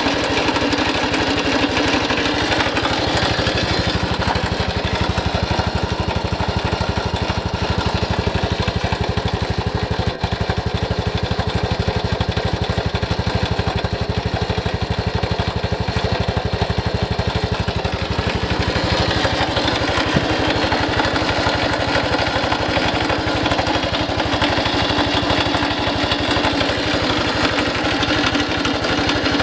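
Honda Cross Cub 110's single-cylinder engine running steadily at idle. It carries the abnormal engine noise the owner has been taking up with Honda, which replacing the engine with a brand-new engine assembly has not cured.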